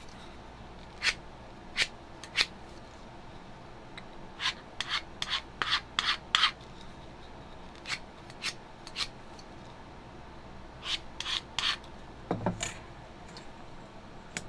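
Short scraping strokes of an X-Acto craft knife slicing through panel material: three single strokes, then a quick run of about eight, then more scattered strokes.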